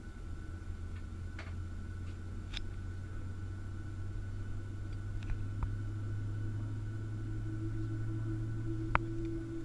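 Steady drone of a Boeing 737-700 heard from inside the aircraft, its low hum slowly rising in pitch in the second half, with a few light clicks and one sharper click near the end.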